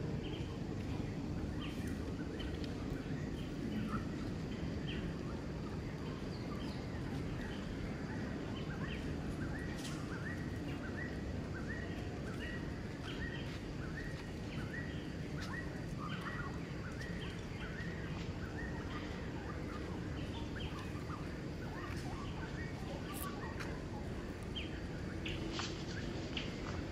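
Outdoor ambience of a steady low rumble and hiss, with a bird repeating short chirps about twice a second, thinning out in the later part.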